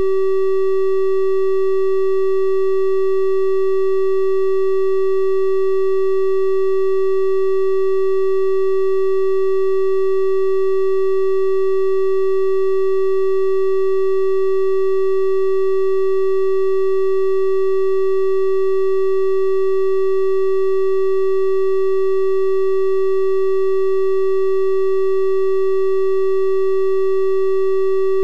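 A synthesized 384 Hz triangle-wave tone held perfectly steady, with a pure, slightly hollow sound and fainter overtones above the main pitch.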